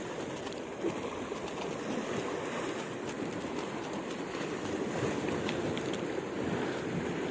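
Steady wash of sea waves on the shore, mixed with strong wind.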